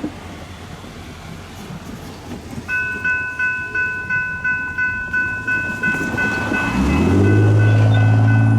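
Railroad crossing bell ringing at about two strokes a second. About seven seconds in, a loud, deep steady drone from an approaching train sets in, rising briefly in pitch before it holds.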